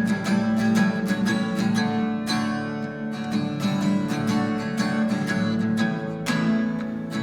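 Acoustic guitar strummed in a steady rhythm through an instrumental passage between sung lines of a live song.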